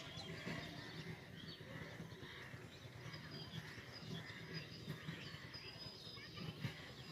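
Faint, high bird chirps and short whistles over a steady low background hum.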